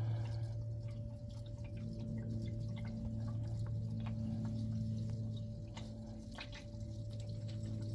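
Engine oil draining from the oil pan into a plastic jug, with faint drips and ticks over a steady low hum.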